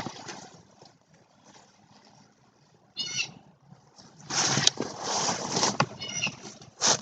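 A bird calling twice in short pitched bursts, about three seconds in and again near the end, between louder bursts of rushing noise.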